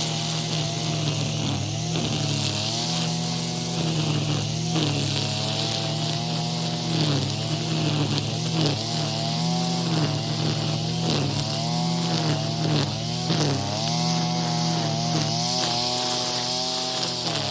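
Engine brush cutter with a nylon cord head cutting weeds: the small engine runs at high revs, its pitch dipping briefly again and again as the spinning line bites into the grass and then recovering, over a steady high hiss from the whipping cord.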